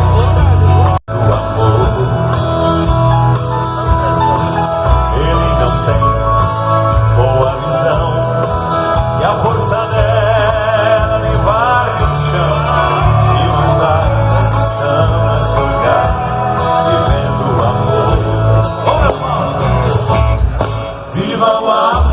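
Live band music, Catholic pop played on stage, with singing in parts and a steady bass line. The sound cuts out for an instant about a second in.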